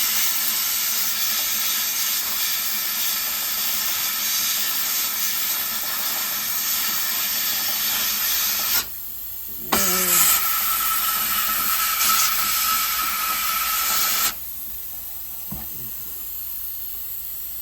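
Aircraft spark plug cleaning machine blasting a fouled plug: the abrasive blast hisses for about nine seconds, stops briefly, then the air blast hisses with a steady whistle for about four and a half seconds and cuts off.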